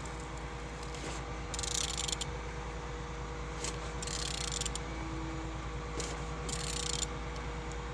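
Engine being turned over by hand: a few short scraping, rubbing strokes over a steady low hum. The engine turns freely, a sign it is not seized.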